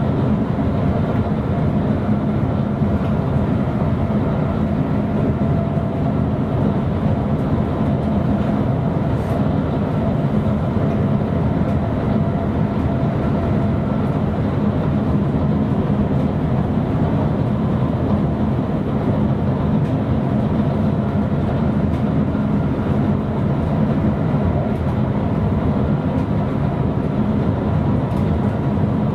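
Sprinter passenger train running along the line, heard from the driver's cab: a steady rumble with a few faint, even tones over it.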